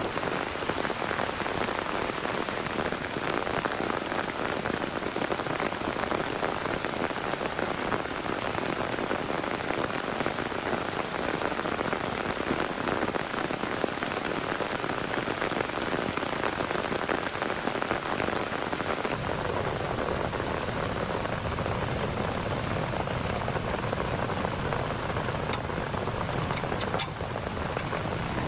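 Heavy rain falling steadily in a forest, a dense even hiss. About two-thirds of the way through it gains a deeper low rumble.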